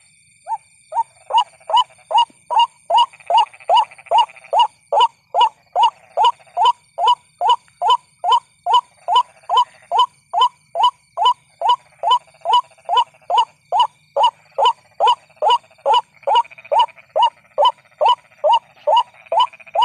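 White-breasted waterhen call played as a bird-trapping lure: short harsh 'kruak' notes repeated steadily about two and a half times a second, starting after a brief pause at the opening.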